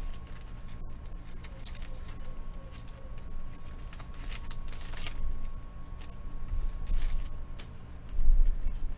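Sports trading cards being handled and flipped through: soft sliding and flicking with a few brief rustles, and a low thump near the end.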